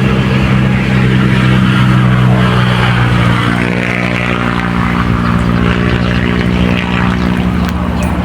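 An engine running steadily at a constant pitch, loud and close, with a couple of light clicks near the end.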